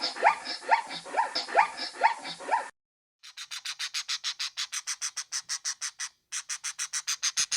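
A dog yipping in short, rising, whiny calls, about three a second, for the first few seconds. After a cut comes a fast, even series of high chirps, about five a second, that speeds up near the end.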